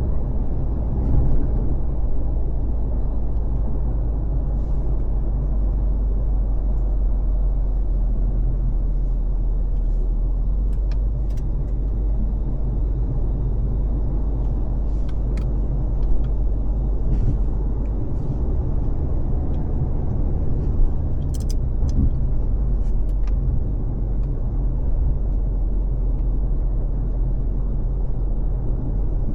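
A car being driven, a steady low rumble of tyres and engine, with a few faint ticks scattered through it.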